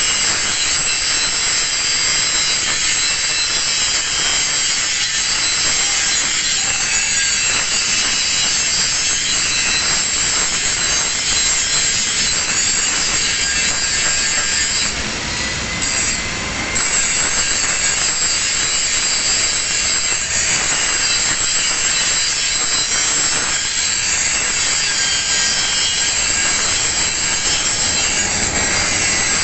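Angle grinder grinding a single bevel on the edge of a steel plate, running steadily under load with a steady high whine, easing off briefly about halfway through.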